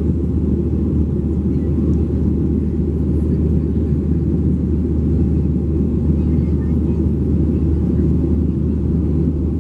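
Steady cabin drone of a Boeing 737-700 in flight, from its CFM56-7B turbofan engines and airflow, heavy in the low end and unchanging.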